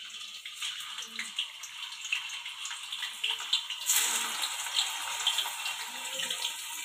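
Paneer cubes sizzling and crackling as they are dropped into hot oil in a kadhai for deep-frying, the sizzle growing louder about four seconds in as more pieces go in.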